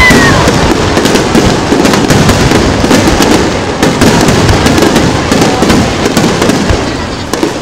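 Barrage of aerial fireworks shells bursting overhead: many overlapping bangs and crackles in quick succession, easing slightly near the end.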